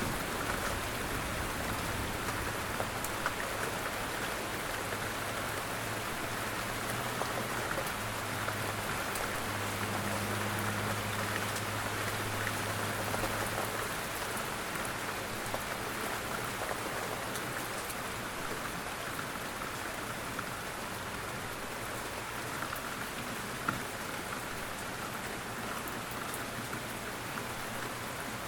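Steady rain falling, an even hiss with scattered ticks of single drops. A faint low hum sits underneath for about the first half.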